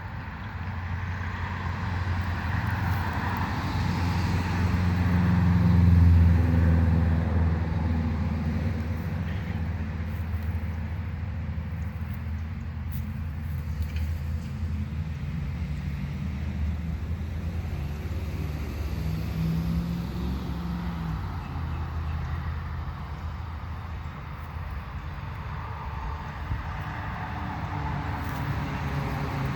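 Low, steady rumble of road traffic, swelling to its loudest about six seconds in as a vehicle passes, then easing off.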